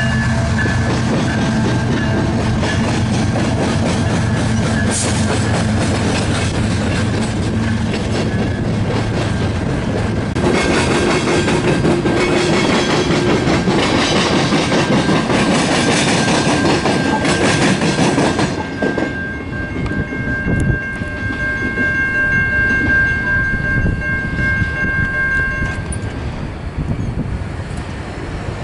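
Freight train passing close by: the trailing GE ES44AC diesel locomotive's engine running, then freight cars rolling past with steady wheel rumble and clatter, loudest about halfway through. In the last third it is quieter, with a steady high-pitched ringing tone for several seconds.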